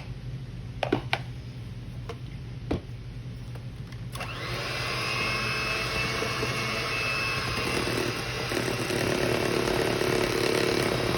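A few sharp taps, then about four seconds in an electric mixer switches on and runs steadily, beating flour and cocoa powder into brownie batter.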